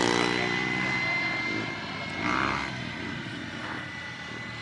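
KingTech K80 turbine of an RC model Tornado jet, a steady high whine. It is loudest at the start with a falling sweep in pitch, then steadier and somewhat quieter, with a brief swell about two seconds in.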